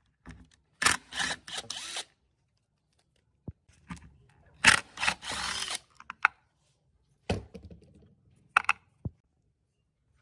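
Handling noises: two rasping scrapes about a second long, with sharp clicks and knocks in between and near the end.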